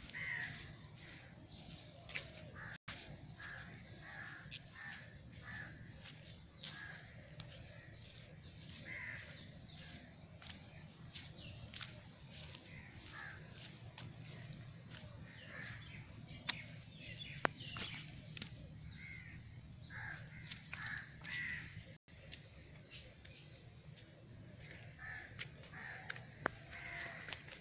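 Birds calling repeatedly, many short calls one after another, with a steady high chirping behind them.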